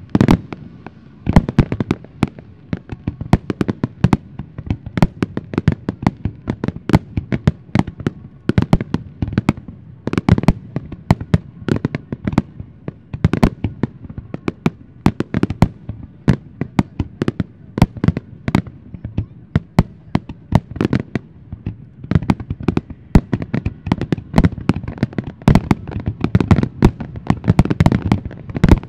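Dense barrage of aerial firework shells bursting, several sharp booms a second overlapping without a break.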